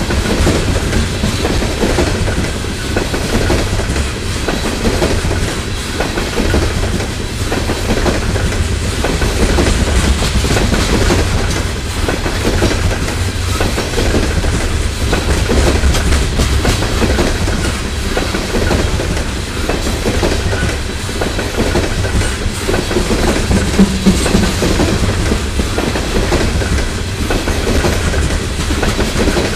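CSX coal hopper cars rolling past close by: a steady heavy rumble with the wheels clicking repeatedly over the rail joints.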